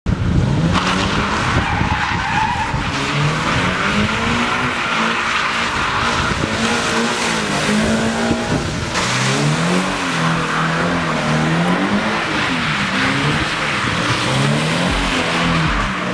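Sports car engine revving up and down over and over while the tyres slide and hiss on wet pavement during donuts.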